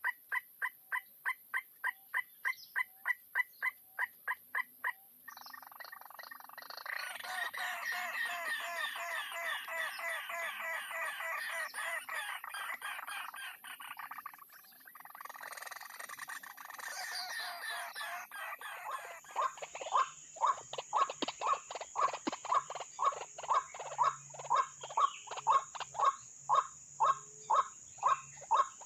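White-breasted waterhens calling. First comes a quick run of repeated calls, about four a second. A dense chorus of overlapping croaking calls follows, and then loud, evenly repeated calls about two or three a second.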